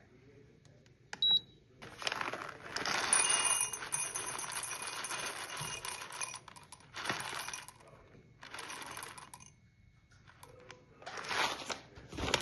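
Clinking of dishes and metal utensils, with several bursts of hissing noise, the longest about four seconds.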